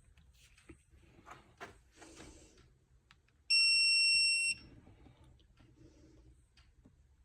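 Snap-on electronic torque wrench giving one steady high beep lasting about a second, the signal that the set torque has been reached. Faint clicks and rustling of the wrench working on a bolt come before and after it.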